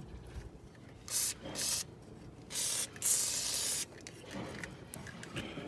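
Aerosol lubricant sprayed in four short hissing bursts, the last and longest nearly a second, onto a swamp cooler's fan ball bearings.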